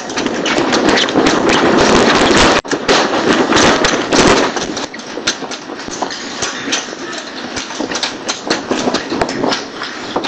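Storm wind blasting through a car service shop, a dense rushing noise full of rapid knocks, rattles and clatter from things being blown about. It is strongest in the first half and eases somewhat after about five seconds.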